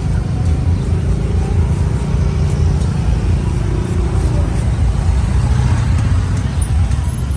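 Steady low rumble of motor vehicles running nearby.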